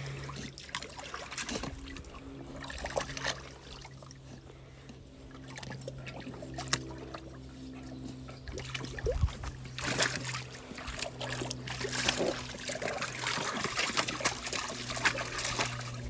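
A dog splashing and paddling in a small pool of water, with scattered splashes and dribbling that grow busier about ten seconds in. A steady low hum runs underneath.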